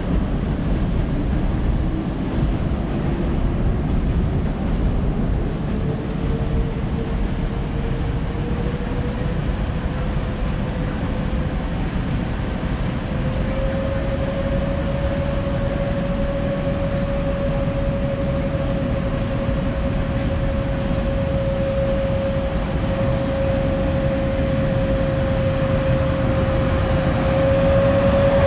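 PKP Intercity electric locomotive hauling a passenger train slowly into a station platform. There is a steady rumble, and above it a whine that rises in pitch over the first several seconds and then holds steady. The sound grows louder near the end as the locomotive draws alongside.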